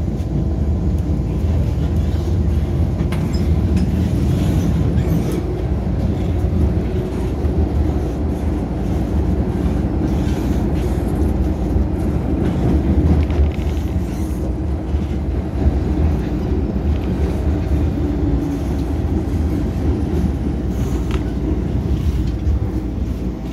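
MTR Island Line M-Train running, heard from inside the passenger car: a steady low rumble of wheels and running gear with a faint steady hum above it.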